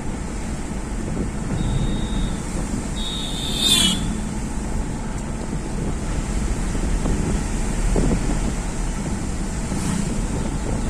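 Steady road and wind noise of a vehicle travelling along a highway. A short high-pitched tone sounds twice, about two and four seconds in.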